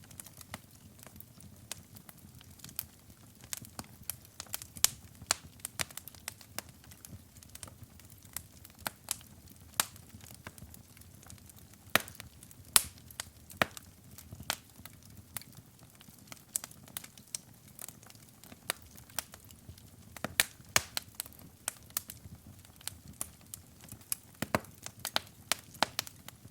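Wood fire burning in a fireplace: irregular sharp crackles and pops, some much louder than others, over a soft low rumble of the flames.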